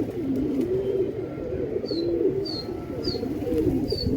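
Domestic pigeons cooing continuously in overlapping, wavering calls. From about two seconds in, a small bird gives four short, high, falling chirps.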